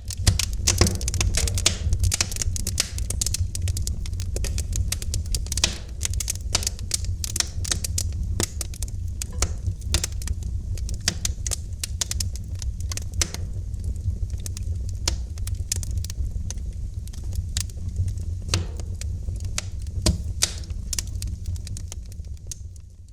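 Wood fire crackling in a fireplace: dense, irregular pops and snaps over a steady low rumble, easing off near the end.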